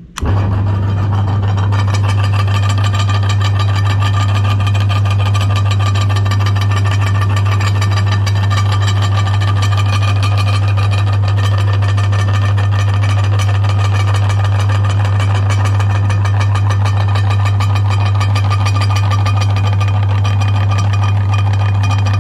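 Electric meat grinder's motor switching on and running steadily with a strong, even low hum.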